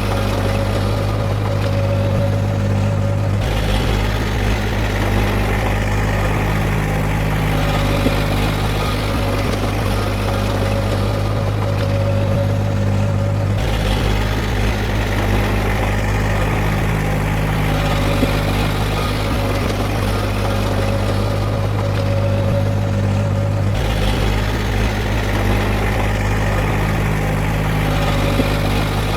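Heavy diesel earthmoving machine engine running steadily at a constant speed, with a low drone whose character shifts about every ten seconds.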